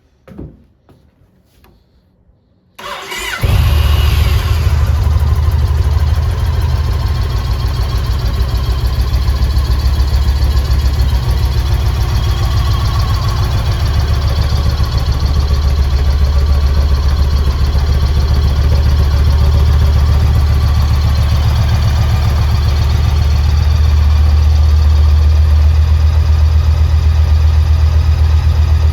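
Yamaha Stratoliner S's 1854 cc air-cooled V-twin being started: the starter cranks briefly about three seconds in, the engine catches, and it then settles into a steady idle with a deep, even low pulse.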